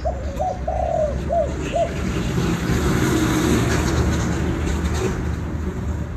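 Spotted dove cooing: a quick run of about five short coos in the first two seconds, over a steady background hiss.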